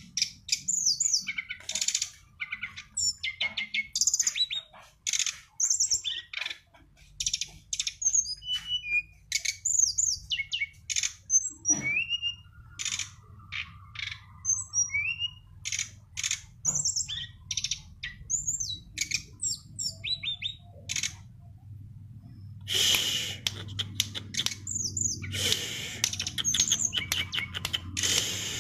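A songbird singing a fast, varied stream of high chirps, whistled slurs and short trills, with harsher buzzy notes near the end.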